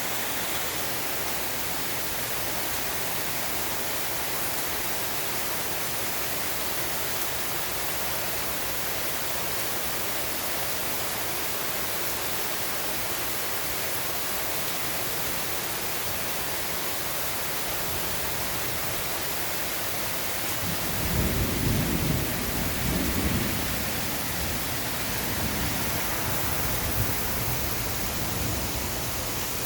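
Steady rain hissing, with a low roll of thunder starting about twenty seconds in that swells for a few seconds and dies away.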